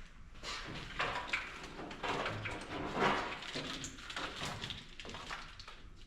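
Irregular rustling, scraping and light knocks of hands working a wiring harness through the truck's engine bay.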